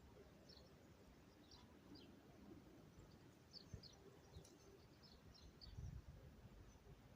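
Small birds chirping faintly: many short, high chirps scattered through, over a low background rumble, with a low bump a little before six seconds.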